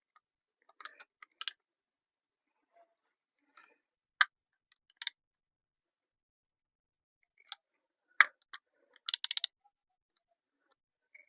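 Torque wrench clicking while engine bolts are tightened: scattered single sharp clicks, with a quick run of ratcheting clicks about nine seconds in.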